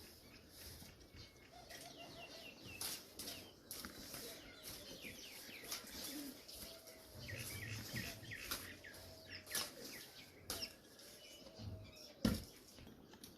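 Birds calling, low wavering calls mixed with higher short chirps, amid wing flaps and scattered sharp clicks; the loudest click comes near the end.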